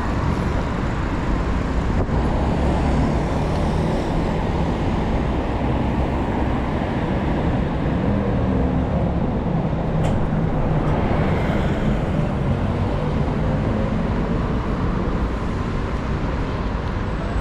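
Steady city street traffic: car and bus engines and tyre noise passing continuously, with a sharp click about ten seconds in.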